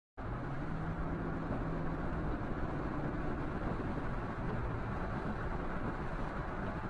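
A car being driven, its engine and road noise a steady rumble as picked up by a dashcam. It starts suddenly a moment in.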